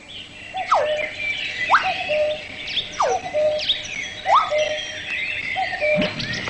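Bird-like whistling and chirping: about once a second a whistle swoops down and settles on a short held note, with quicker chirps above it.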